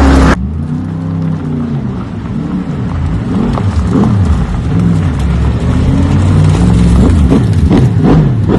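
Toyota GR GT / GR GT3 V8 engines running on a demo run, their pitch rising and falling over and over as they rev and lift off. Just after the start a loud rushing sound cuts off suddenly. Near the end a quick string of sharp pulses rides on the engine note.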